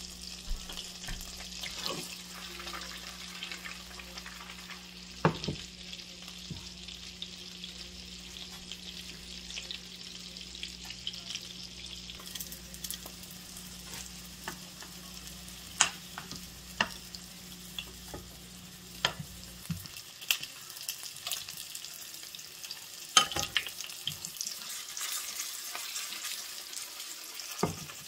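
Halved red potatoes sizzling steadily in butter in a frying pan, with scattered sharp clicks and knocks as metal tongs turn them against the pan. A low steady hum underneath stops about two-thirds of the way through.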